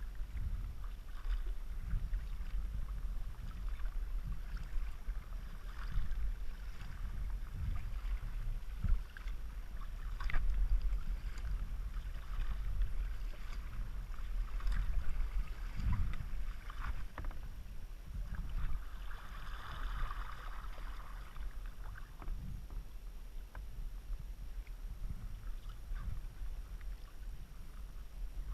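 Kayak paddle strokes dipping and splashing in the water, irregular short splashes, over a steady low rumble.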